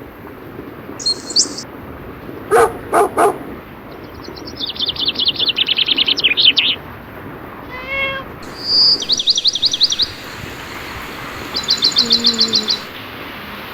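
Birds singing in bursts of rapid trilled notes over a steady hiss of rain. Three short barks come close together about two and a half seconds in.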